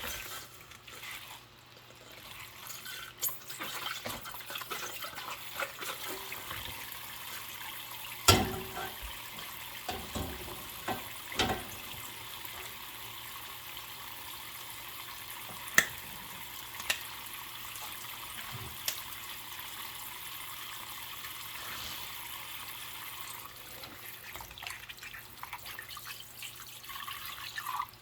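Tap water running steadily into a sink during dishwashing, with a few sharp clinks and knocks of dishes being handled, the loudest about eight seconds in.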